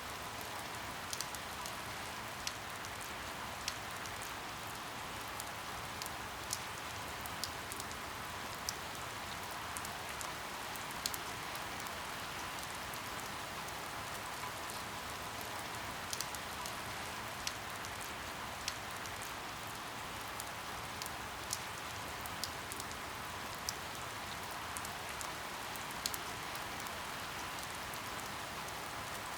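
Steady rain falling, with scattered sharp drops tapping on a surface about once every second or two.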